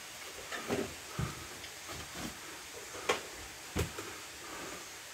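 Top-hung windows being swung shut by hand: a few scattered knocks and clunks of the frames and timber, the sharpest about three seconds in.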